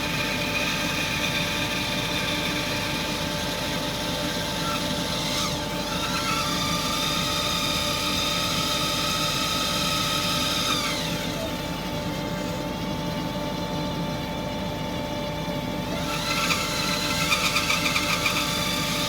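Bandsaw running and cutting a block of cherry wood, a steady motor hum under a higher whine. The whine rises about six seconds in, falls away about eleven seconds in, and turns rougher and fluttering near the end.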